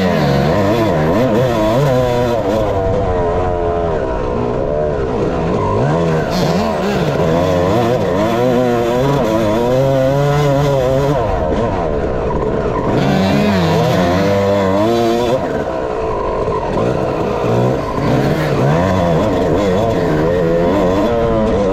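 Dirt bike engine revving hard, its pitch climbing and dropping over and over as the rider works the throttle and shifts through the gears on the track.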